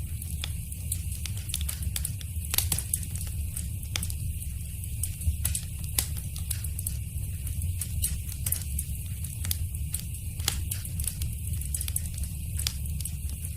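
Wood fire burning in a fireplace, crackling with irregular sharp pops, several each second, over a steady low rumble of the flames.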